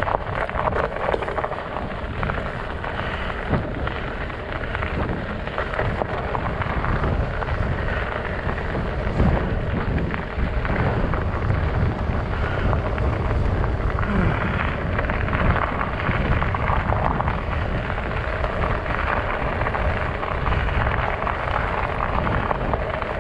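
Steady rolling noise of a fat bike's studded tires riding over ice and snow, with a heavy low rumble throughout.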